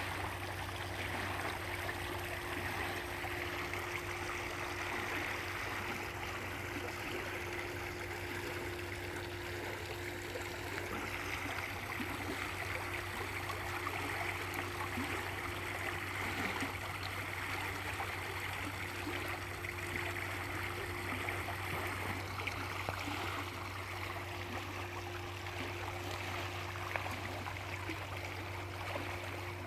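Stream water flowing and splashing steadily, an even rushing sound, with a steady low hum underneath.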